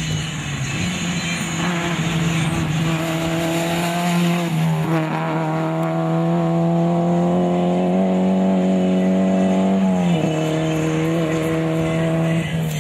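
Rally car engine running hard at high revs, its note holding high and steady, stepping in pitch a few times.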